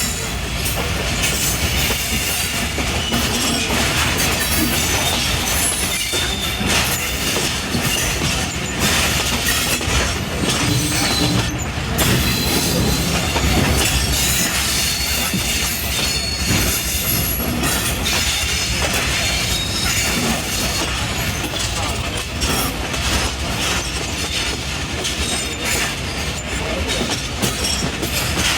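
Badar Express passenger train running on the rails: a steady rumble with wheels clacking over rail joints and short high wheel squeals now and then.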